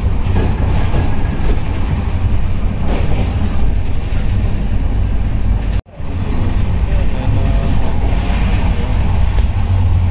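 Steady low rumble of an Indian Railways Humsafar Express passenger train running, heard from inside the coaches. The sound cuts out for a moment about six seconds in and resumes just as before.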